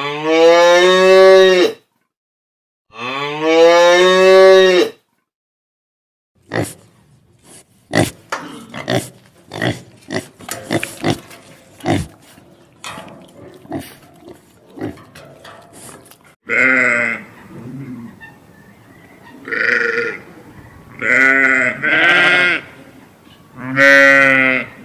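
Farm animals calling: a cow moos twice in long, drawn-out calls. A stretch of rapid clicking and grunting follows, then several shorter animal calls near the end.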